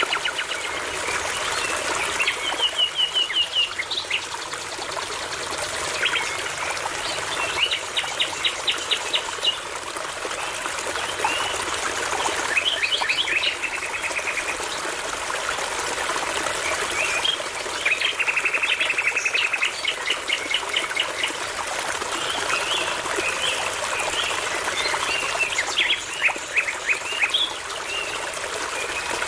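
Common nightingale singing phrases of fast repeated notes, broken by short pauses, over the steady rush of a babbling brook.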